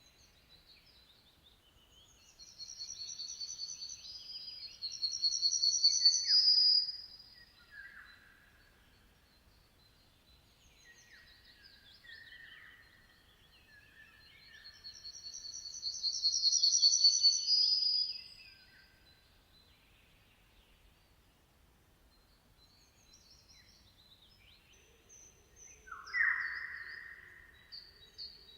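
Songbirds singing: a loud, high, rapidly trilled song phrase comes twice, about ten seconds apart, with quieter chirps and lower whistled notes between and a sharper call near the end.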